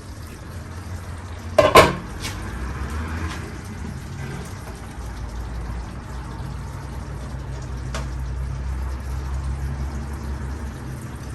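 A metal utensil clinks sharply against a cooking pot about two seconds in, with a lighter clink later, over a steady low hum while the curry cooks.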